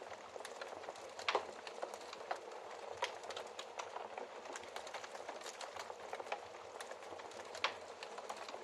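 Wood fire crackling in a fireplace: a steady soft hiss with scattered sharp pops. The loudest pops come about a second in and near the end.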